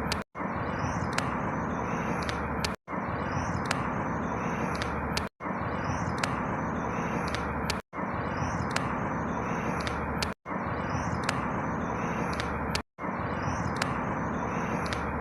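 Outdoor ambience: a steady rushing noise with a few faint high chirps above it. The same clip of about two and a half seconds is looped over and over, and each repeat is cut by a brief drop to silence, six times in all.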